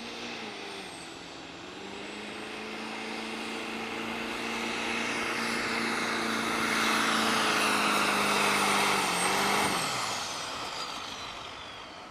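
Turbo-diesel pickup truck's engine held at high revs under load on a truck pull, with a high turbo whistle over it, growing louder. About ten seconds in the throttle is let off: the engine note drops away and the turbo whistle falls.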